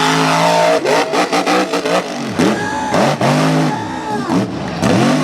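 Mega truck engine revving hard, its pitch climbing and dropping over and over as the driver blips the throttle. A quick run of sharp knocks comes between about one and two seconds in.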